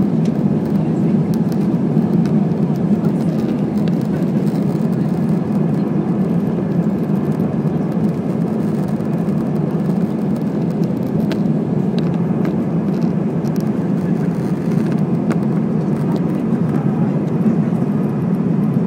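Steady jet engine and airflow roar heard inside the cabin of an Airbus A320 in the climb shortly after takeoff.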